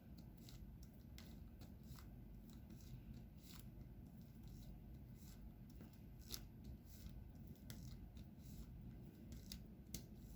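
Faint, sharp clicks at an irregular pace of about one or two a second over a low hum: a diamond painting pen tapping resin drills onto the sticky canvas.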